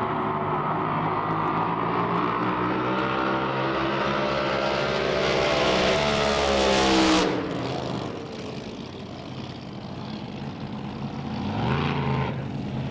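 Racing drag boat engine running hard down the course, getting louder and higher in pitch until it cuts off suddenly about seven seconds in. A quieter engine sound follows, and an engine revs up again near the end.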